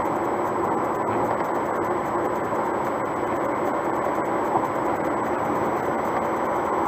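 Steady road and tyre noise of a car driving at highway speed, heard from inside the cabin, with a few faint clicks.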